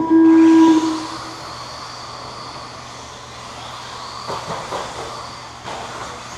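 A loud, steady electronic start tone sounds for about a second. Then a pack of radio-controlled stadium trucks runs on the dirt track, a steady haze of motor whine and tyre noise with a few light knocks from about four seconds in.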